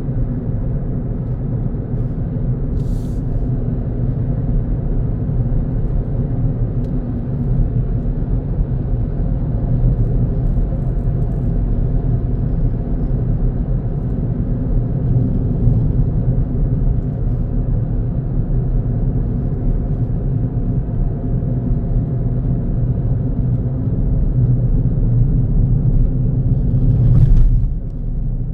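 Car driving along a road, heard from inside the cabin: a steady low rumble of engine and tyre noise with a faint engine hum. There is a brief hiss about three seconds in, and another near the end, where the rumble swells louder for a moment.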